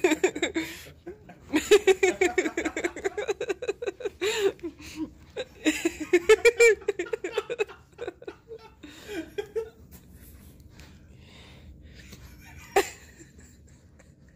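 A person laughing hard in quick, pulsing bursts of giggles for about eight seconds, then trailing off. There is a single sharp knock near the end.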